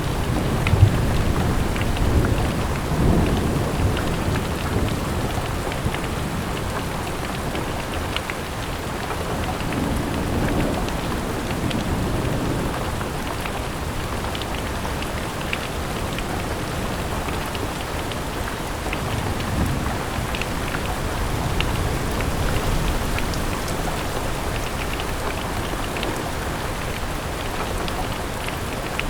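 Steady rain falling, with scattered drop ticks. A low rumble of thunder runs through the first dozen seconds and dies away.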